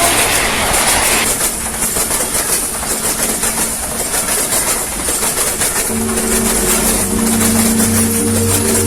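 Train running past on the track, a loud steady rush of wheels on rails with a fast clatter. About six seconds in, a steady chord of held tones comes in under it.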